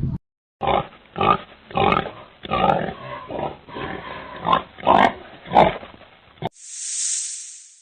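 An animal grunting repeatedly, about ten short, throaty grunts in a row, which stop abruptly. Near the end comes a loud, steady hiss.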